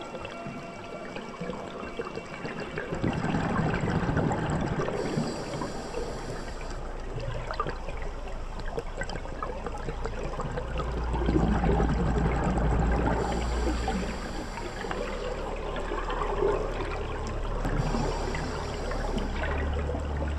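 Underwater scuba-dive sound: bubbling and rushing water with a low rumble, and a higher hiss that comes three times, a few seconds apart.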